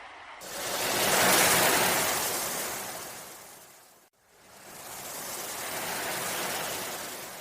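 Sea waves washing in: two swells of surf, each rising and then fading away. The first breaks off abruptly partway through, as at a splice in the recording.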